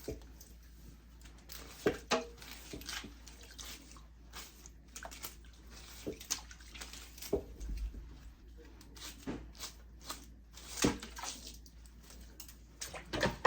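Water sloshing and dripping as a wig is washed by hand in a basin, with irregular small splashes and clicks.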